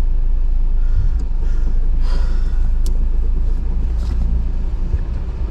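Jeep Wrangler JL crawling slowly over rocks, a steady low rumble throughout, with a brief knock and a scrape about two seconds in.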